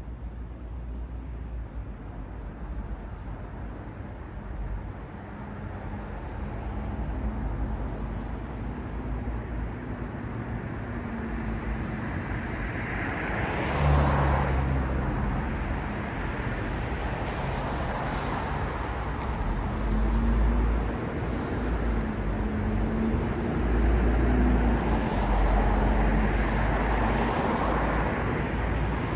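Road traffic: cars and heavier vehicles passing, with a steady rumble of engines and tyres. It swells as vehicles go by, loudest about halfway through and again in the last third.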